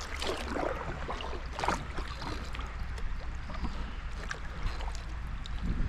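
Kayak paddling down a shallow creek: scattered paddle splashes and knocks over running water, with a steady low rumble underneath.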